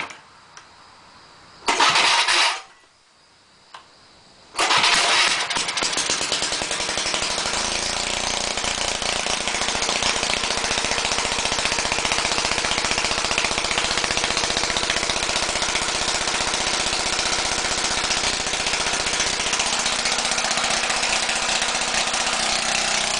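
Tecumseh 4 HP four-stroke snowblower engine being pull-started: a short burst of cranking about two seconds in, then on the next pull, about four and a half seconds in, it fires. It settles within a few seconds into running steadily at what the owner takes for a little too fast a speed.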